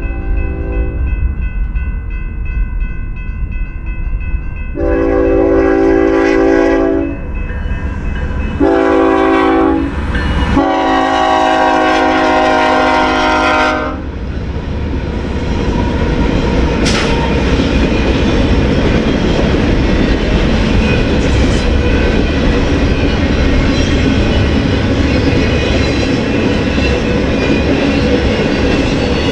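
Diesel locomotive horn on a BNSF freight train sounding a series of long blasts: the tail of one blast, then three more, the last the longest. The train then rolls past with steady wheel and rail noise.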